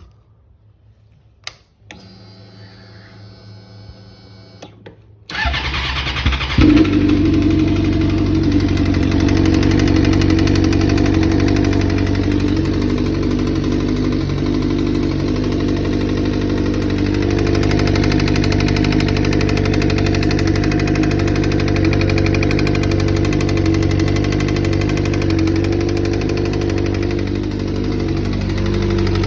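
2007 Suzuki GSX-R600 inline-four engine being started: a click and a few seconds of steady hum, then the starter cranks briefly and the engine catches about six and a half seconds in and settles into a steady idle. The idle carries the knock that turned out to come from a spun bearing, with bearing material found in the oil.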